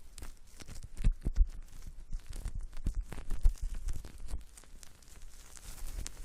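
Close-miked ASMR triggers on the microphone: irregular crackling, scratching and rubbing with soft low thumps, like a scalp being scrubbed in a pretend hair wash.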